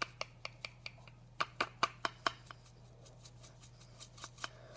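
Small, irregular clicks and taps of a little spoon knocking against a spice container while scooping crushed red pepper, a few a second, loudest around the middle.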